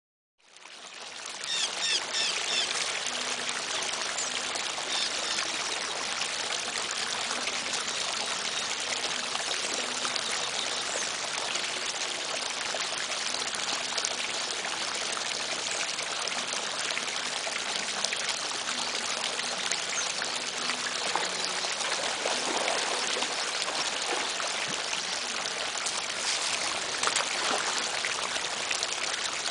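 Running water, a steady rushing and trickling that starts suddenly about half a second in and holds at an even level.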